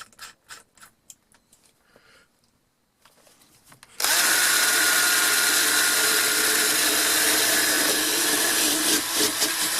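A small handheld power drill driving a wire brush, used to clean gunk off a metal part of a vintage hand drill, starts suddenly about four seconds in and runs steadily with a whine. Near the end its sound wavers as the brush bears on the work. Before it there are only a few faint handling clicks.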